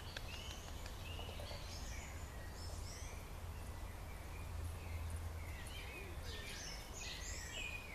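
Small birds chirping and singing, many short high calls, thickest about six to seven seconds in, over a steady low rumble.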